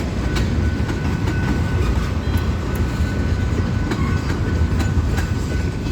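Freight train hopper cars rolling slowly past: a steady low rumble of wheels on rail, broken by irregular sharp clicks as wheels cross rail joints, with a faint steady high tone above.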